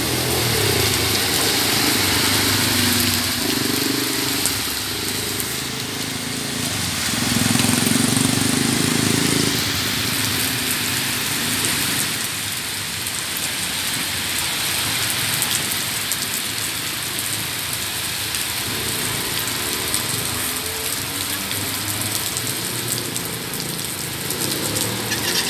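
Steady rain falling and splashing as a heavy storm eases off. A low hum rises and fades a few times underneath it.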